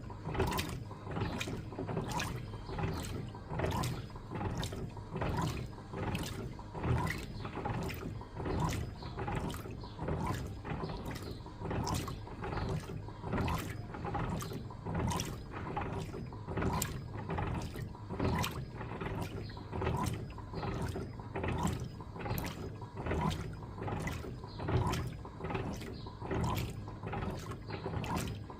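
Electrolux LTA15 top-loading washing machine agitating a load of bed linen, the agitator sloshing water back and forth in an even rhythm of about two strokes a second.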